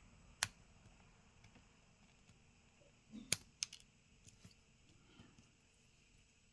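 A few sharp clicks and taps of a small tool and a metal bracket against a smartphone's frame as the bracket is pried off. The loudest comes just after three seconds in, with a second right after it.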